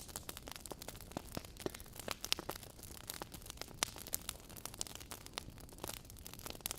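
Wood fire burning in a fireplace: logs crackling and popping in irregular sharp snaps over a low steady hiss.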